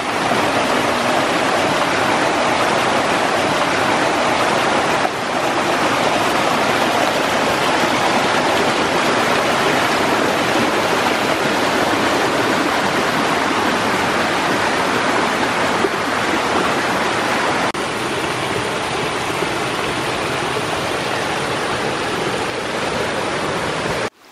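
Water rushing steadily down a small hill stream over hand-built terraces of stacked stone and sand, a loud, even rush; the level shifts slightly twice, about five seconds in and again after about eighteen seconds.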